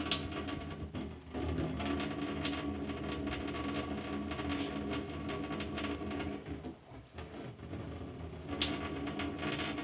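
Water running from a tap, with a steady low hum and many quick irregular ticks and splashes.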